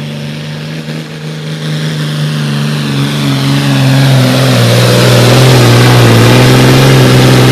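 Pulling tractor's diesel engine running hard under load as it pulls the sled down the track, growing steadily louder over the first few seconds and then holding loud and steady at a nearly constant pitch.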